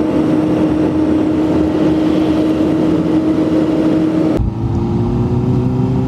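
Car engine and road noise, a steady loud drone. About four seconds in it changes abruptly to a lower rumble with a slowly rising engine note.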